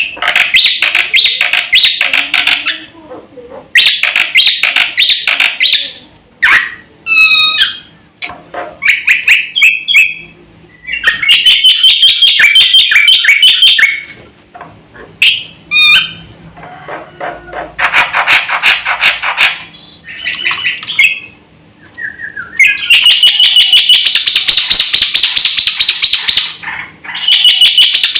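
Black-winged myna (jalak putih) singing loudly. Its song comes as bursts of rapid, evenly repeated chattering notes, about ten a second, broken by short pauses, with a few sweeping whistles between the bursts.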